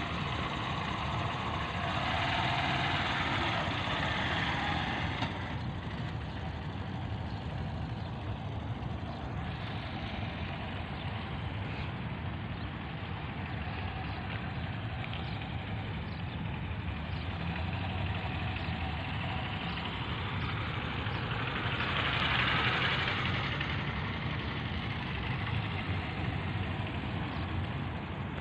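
Motorcycle engine running steadily, swelling louder twice: from about two seconds in, and again a little past twenty seconds.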